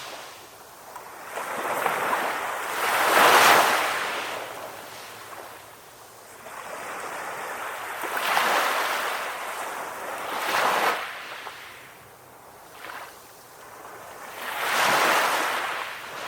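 Ocean waves breaking and washing up the shore, the surf swelling and fading about every few seconds, with four louder breakers.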